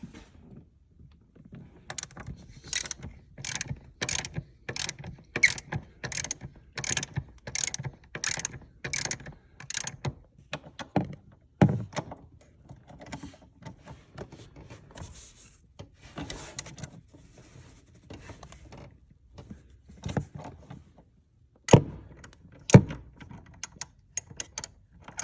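Ratchet wrench clicking in an even rhythm, about two clicks a second, as a seat-rail bolt is unscrewed, then clicking more irregularly with a few louder knocks near the end.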